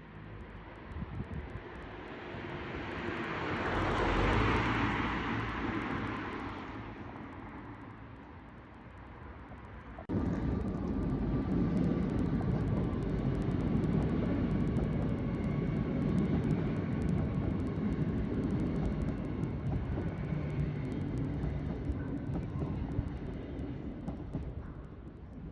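A passing vehicle's noise swells and fades over several seconds. After an abrupt change about ten seconds in, a steady low rumble follows, with faint steady tones in it.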